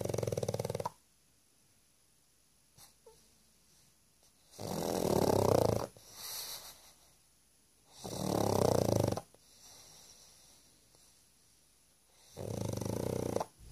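Pug snoring loudly in its sleep: four long snores about four seconds apart, each followed by a softer breath out.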